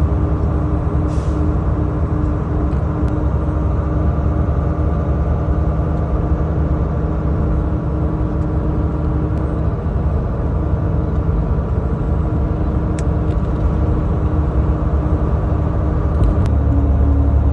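Truck driving at steady speed: a continuous low engine drone with road noise, with a few faint clicks.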